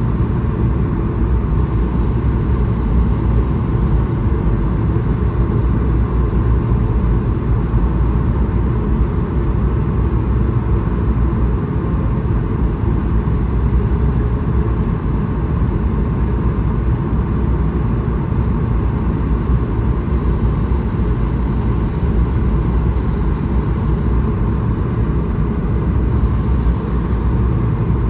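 Steady cabin noise inside an Airbus A220-300 airliner: an even low rumble of engines and airflow that does not change.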